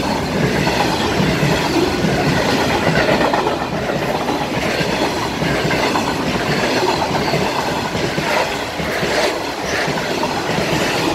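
Freight train passing at close range: a Class 66 diesel locomotive goes by, followed by its long rake of box wagons, with a steady heavy rumble of wheels on rail and a rhythmic clatter as the wheels cross the level crossing.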